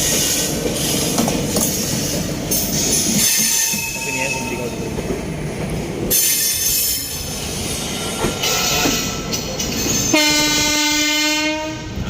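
Indian Railways train running on the track, with wheel-and-rail rolling noise and occasional thin wheel squeal, heard from aboard the moving passenger train. About ten seconds in, a locomotive horn sounds one steady note for about two seconds.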